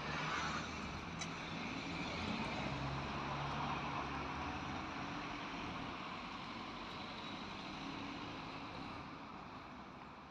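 Steady hum of a motor vehicle engine over broad traffic noise, loudest in the first few seconds and slowly fading toward the end.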